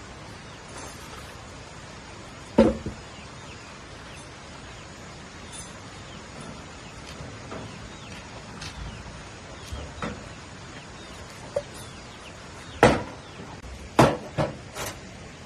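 Chopping with a blade: a single sharp blow, a long pause with a few faint knocks, then a heavier blow followed by three quick strikes near the end.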